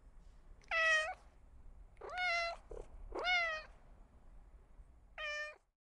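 Domestic cat meowing four times, each meow about half a second long, the second and third starting low and rising in pitch.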